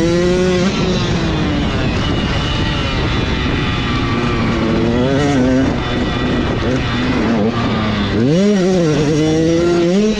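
Dirt bike engines running on a motocross track, the throttle opening with rising revs near the start, about five seconds in and again about eight seconds in, with a steady engine drone between.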